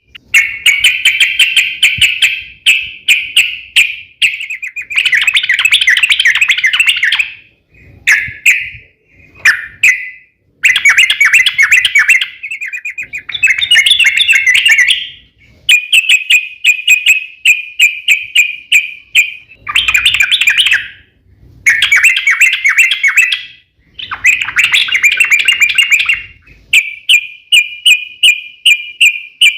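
Yellow-vented bulbul (trucukan) singing in long, rapid, bubbly chattering phrases of a few seconds each, with short pauses between them. This is the long rolling 'ropel' song used as playback to get other bulbuls to answer.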